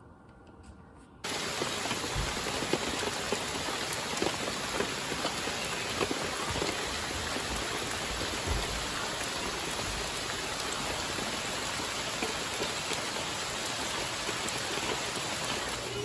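Heavy rain falling steadily on a forest, an even hiss with scattered ticks of drops close by. It starts abruptly about a second in.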